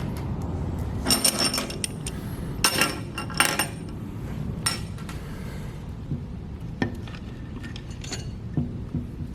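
Metal engine parts and hand tools clinking and clattering in several clusters of ringing clinks during engine teardown, with a few lighter knocks later.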